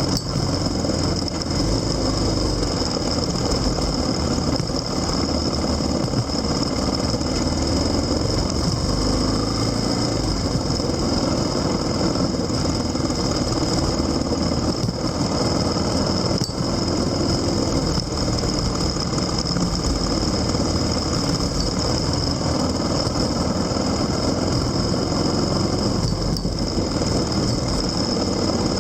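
A vehicle engine runs steadily under a continuous low rumble of road and wind noise, with a constant high whine throughout.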